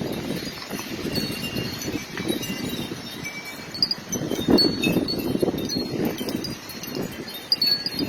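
Strong, gusty wind rushing and buffeting in irregular surges, with scattered short, high-pitched ringing tones over it.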